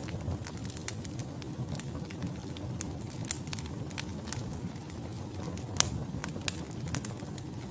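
Wood fire burning in a fireplace: a steady low rumble of flames with irregular sharp crackles and pops from the logs, two louder pops near the end.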